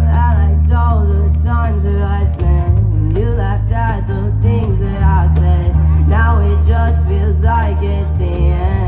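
A live band playing a song: a singing voice carries the melody over guitar and a heavy, steady bass.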